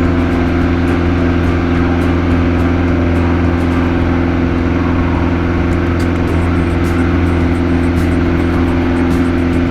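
Piper Cherokee's piston engine and propeller running steadily at takeoff power during the climb-out, a constant drone that does not change in pitch.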